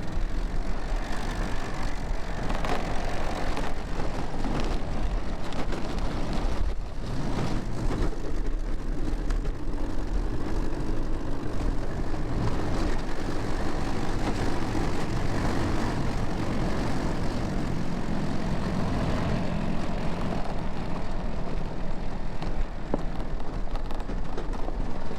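A vehicle's engine running steadily as it drives, with a continuous low rumble.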